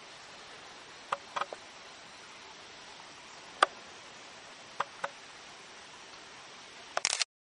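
Several sharp, isolated clicks over a steady hiss, with a quick cluster of clicks near the end that cuts off abruptly.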